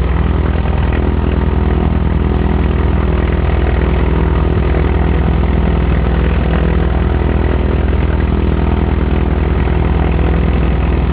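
Cessna 180's six-cylinder piston engine and propeller running steadily at a constant pitch, with no change in engine speed.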